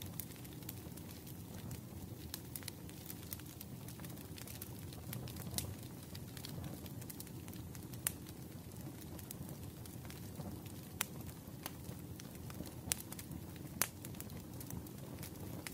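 Wood fire crackling in a fireplace: a steady low rumble of burning with scattered sharp pops and snaps, a few louder pops in the second half.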